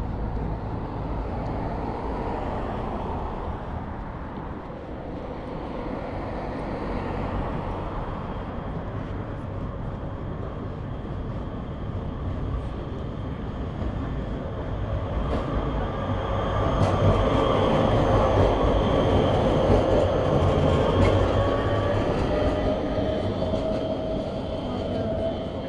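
A rail vehicle passing close by: a steady rumble with an electric motor whine that climbs in pitch, loudest about two-thirds of the way through.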